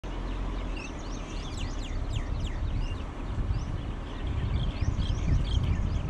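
Many small birds chirping in quick, short, falling notes, busiest from about a second in and again near the end, over the steady low rumble of a car driving slowly along a paved road.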